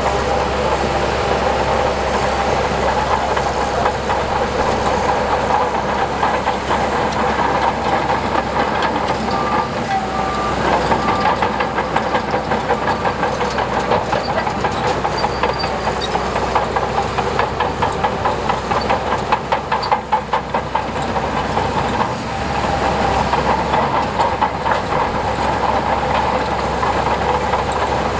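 Shantui crawler bulldozer's diesel engine running steadily under work, with a fast, continuous metallic clatter from its tracks.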